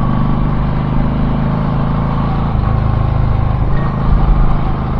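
Car being driven: a steady engine hum with road noise, the engine note stepping down about two and a half seconds in.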